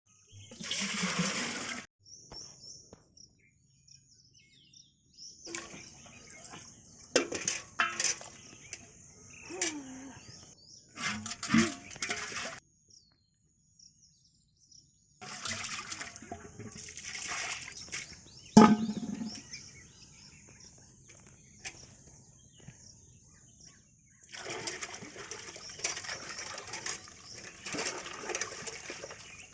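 Water pouring and splashing in several irregular bursts of a few seconds each, with short quiet gaps between them.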